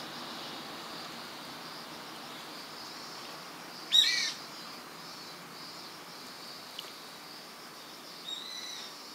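A bird gives one short, loud call about four seconds in and a fainter call near the end, over a steady high-pitched insect hiss.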